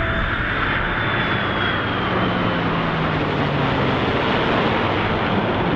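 F-22 Raptor and P-51 Mustang flying past together, a loud, steady noise of jet and piston engines. Tones in it slide down in pitch as the aircraft go by.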